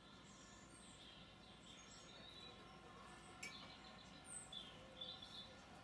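Faint birdsong: small birds chirping at intervals over quiet background noise, with a single short click about three and a half seconds in.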